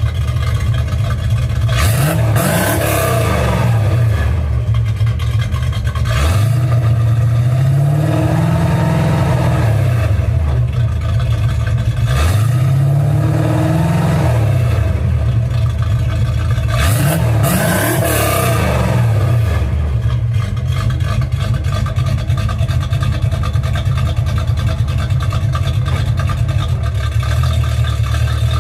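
Mildly cammed Chevrolet 305 small-block V8 with shorty headers, an x-pipe and a gear-drive timing set, revved four times, the third rev held longer and rising and falling more slowly, then settling to a steady idle for the last third.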